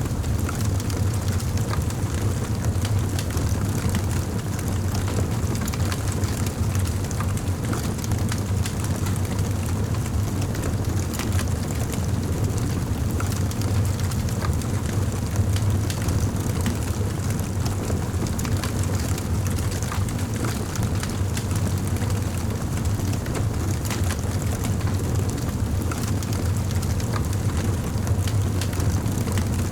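Wood fire burning in a fireplace: a steady low rumble of flame with frequent small crackles and pops.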